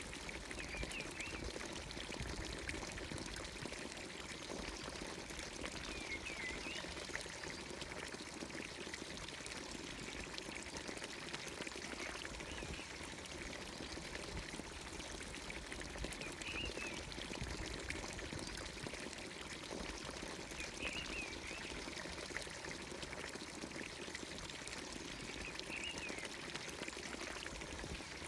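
Water pouring steadily from a village fountain's spout into its watering trough. A bird gives a short high chirping call about every five seconds.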